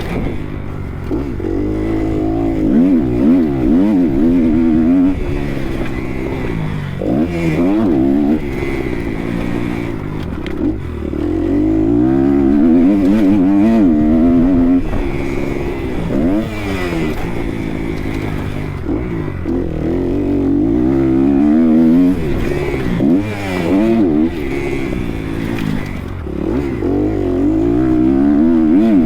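Kawasaki KX250 motocross bike engine revving hard and backing off again and again, its pitch climbing and dropping as the rider accelerates, shifts and rolls off the throttle around the track.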